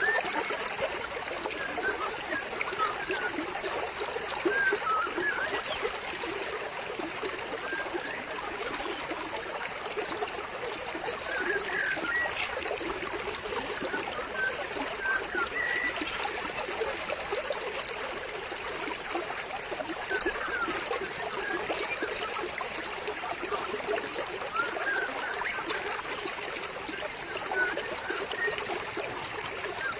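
Stream water trickling and splashing steadily over rocks, with scattered short bird chirps above it.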